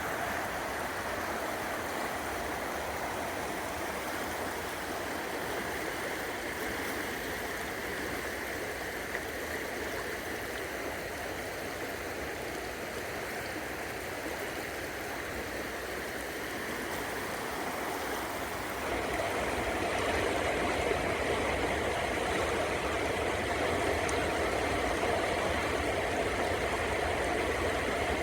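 Steady rush of flowing stream water, growing louder and fuller about two-thirds of the way through.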